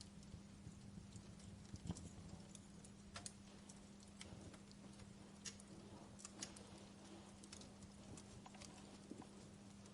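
Wood campfire crackling softly, with irregular sharp pops and snaps, a few louder than the rest, over a faint steady low hum.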